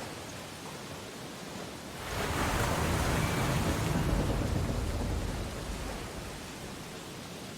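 Ocean waves on a beach: a steady wash of surf, with one wave breaking about two seconds in and rushing up before fading away over the next few seconds.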